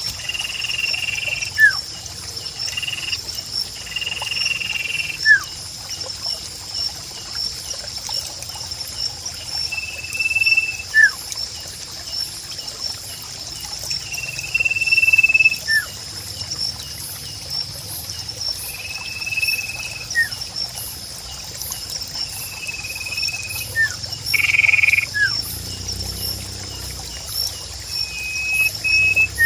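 Sirpu bird calling: a long, even whistle of about a second, followed by a short sharp note, repeated about every four to five seconds. Behind it runs a steady, high, pulsing chorus of nature sounds.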